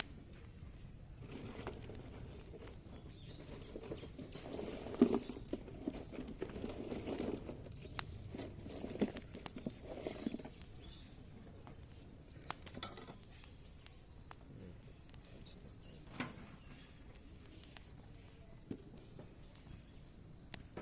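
Wood fire of zelkova and willow branches crackling with sharp pops, busier and louder in the first half, then only scattered single pops.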